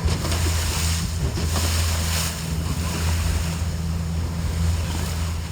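A boat's engine running with a steady low hum, with wind gusting on the microphone and water noise around the hull.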